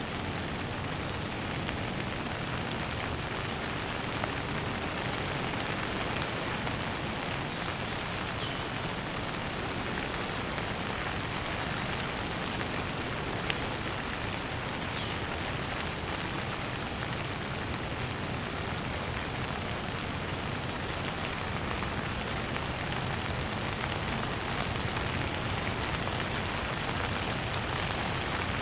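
Steady, even rain falling on a surface, with a few faint, brief high chirps here and there.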